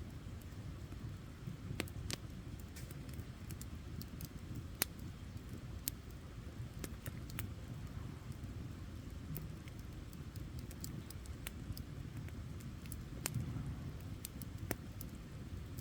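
Wood campfire burning: irregular sharp pops and crackles over a low, steady rumble.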